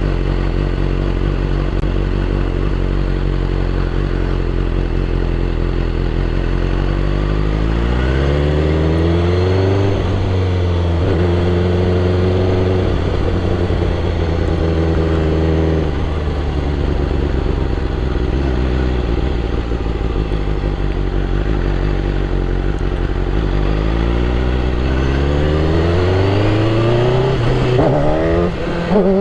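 BMW S1000RR superbike's inline-four engine running at a steady low speed, then climbing in pitch about eight seconds in, with a few short breaks as it goes up. It holds the higher note for a few seconds, drops back to the low steady note, and climbs again near the end.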